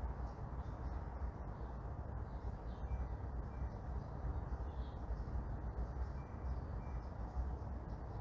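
Morning neighbourhood ambience: a steady low rumble and hiss of distant traffic, with faint scattered bird calls above it.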